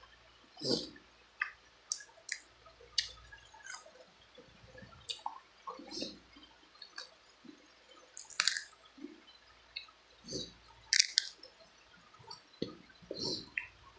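Close-miked mouth sounds of a person eating chicken feet: irregular chewing with many short, sharp clicks and smacks.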